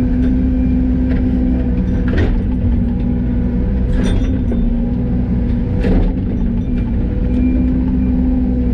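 Yanmar ViO80 mini excavator's diesel engine running steadily with a constant hum, the machine digging. Three short knocks come about two seconds apart, a little past two, four and six seconds in.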